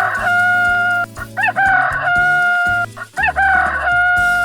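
Rooster crowing three times in a row, each cock-a-doodle-doo ending in a long held note.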